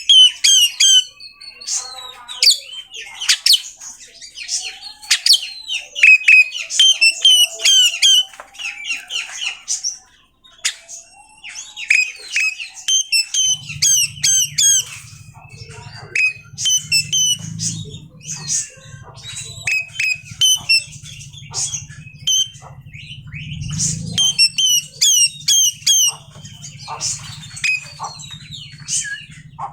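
Oriental magpie-robin (kacer) singing a fast, varied song of rapid chirps, sweeps and harsh chattering notes, used as a lure to set a reluctant bird singing. A steady low hum joins a little under halfway through.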